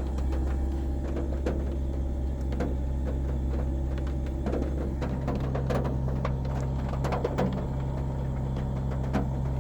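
Car engine idling steadily while warming up, its pitch holding level with no revs, with scattered light ticks over it.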